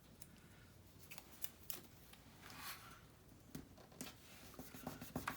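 Faint paper handling: a few light clicks and taps of paper cutouts and cards being moved, with a short paper rustle a little past halfway.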